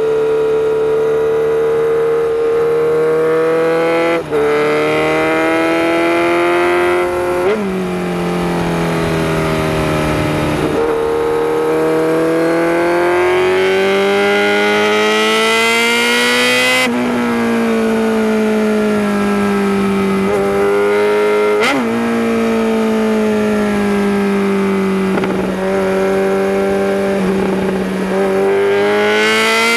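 Kawasaki Z900RS Cafe's inline-four engine running under way on a winding road, its revs rising and falling through the corners, with several sudden jumps in pitch.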